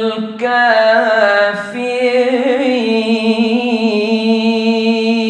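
A man reciting the Quran in melodic tajweed style, drawing one syllable out into a long, ornamented sung note that wavers for about two seconds and then holds steady.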